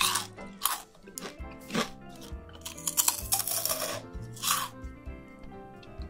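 Several loud crunches from biting and chewing crispy fried chicken skin and Flamin' Hot Cheetos, over background music.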